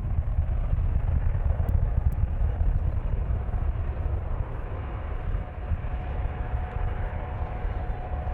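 Jet airliner engine noise: a steady low rumble, with a faint steady tone joining about six seconds in.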